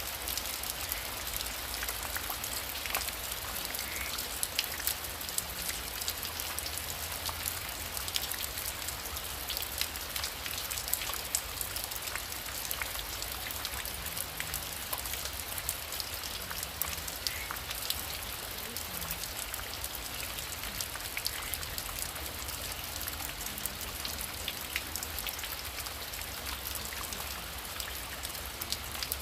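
Heavy rain falling steadily, a dense patter with many individual drops striking close by.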